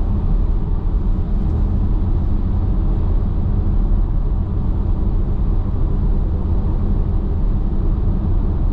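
Steady road and tyre rumble heard inside an electric car's cabin while cruising on the highway, with no engine note.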